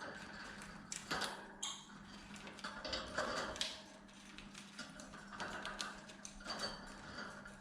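Lovebirds chewing and tearing at a branch: an irregular run of small clicks, taps and crunches from their beaks working the wood and bark.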